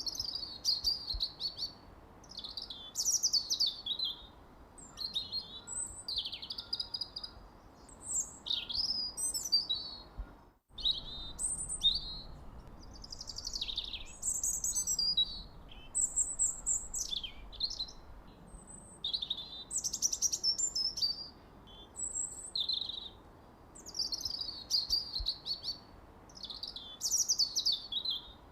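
Songbirds chirping and singing, short high whistled phrases and trills following one another every second or so, over a faint steady background hiss. A momentary dropout about ten seconds in breaks the recording.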